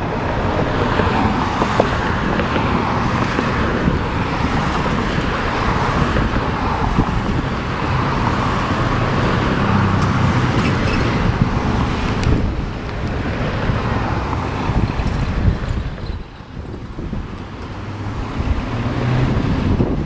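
Vehicle on the move: steady engine and road noise with wind buffeting the microphone, dipping briefly about sixteen seconds in.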